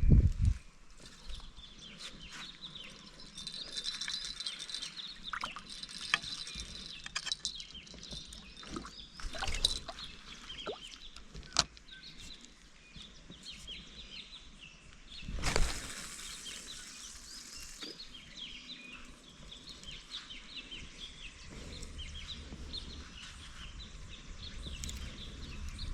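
Outdoor ambience of birds chirping, with scattered small clicks and a brief rush of noise about fifteen seconds in.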